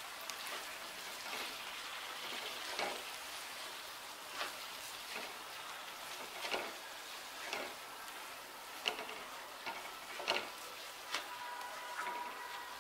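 Uncooked rice and chopped vegetables sizzling in a wok while a wooden spatula stirs them, scraping the pan roughly once a second over a steady frying hiss. The rice is being fried with the vegetables before water goes in.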